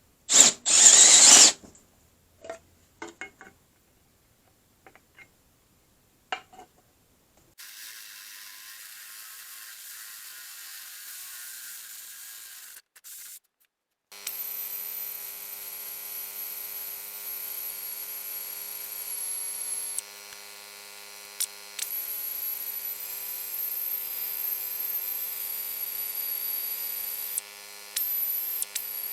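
Electric drill drilling out a hole: a brief loud burst about half a second in, a few clicks, then the drill running steadily for long stretches with a high whine that dips briefly now and then.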